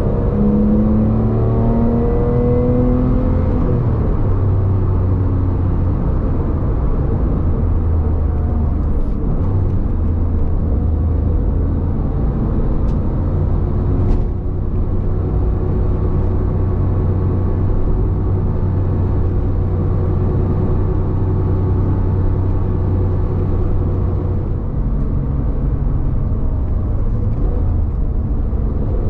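2010 Porsche 911 GT3's naturally aspirated flat-six engine heard from inside the cabin while driving. Its pitch rises under acceleration in the first few seconds, then it runs steadily along with road noise.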